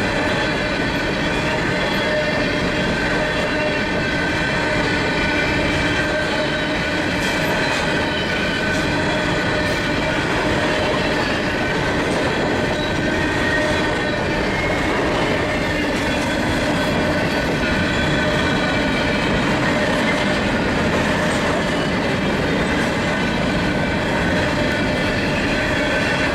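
Freight train's cars rolling past steadily, with steady high-pitched wheel squeal over the running noise of the wheels on the rails.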